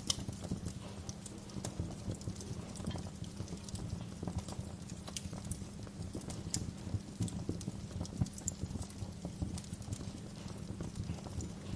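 Wood fire burning in a fireplace: a steady low rumble of flames with irregular crackles and sharp pops from the burning logs.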